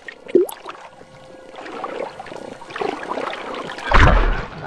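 Underwater sound effects: a bubbling, watery hiss, then a sudden deep whoosh and thump about four seconds in, the frogfish's lunge as it seizes the lionfish.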